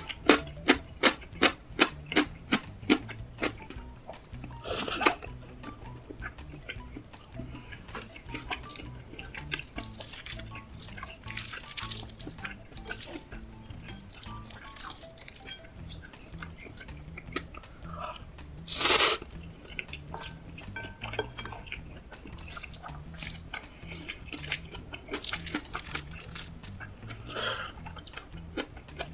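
Close-miked eating sounds: a quick run of crunchy clicks, about three a second, over the first few seconds. Then come scattered clicks of a spoon on a dish and two short noisy bursts, about five seconds in and about nineteen seconds in.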